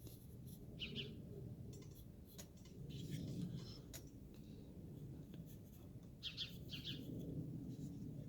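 Faint scratching of a pencil drawing on carving wood, with a few short bird chirps in the background about a second in and again two or three times near the end.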